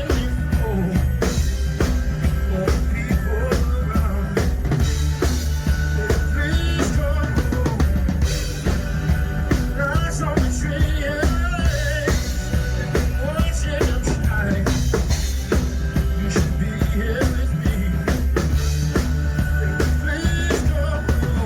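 Live band playing a Christmas song through a PA system, with a drum kit keeping a steady beat, bass, and a singer.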